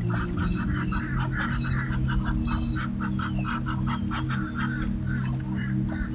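A water bird, goose- or duck-like, calling in a rapid series of short honks, about four or five a second, kept up for several seconds.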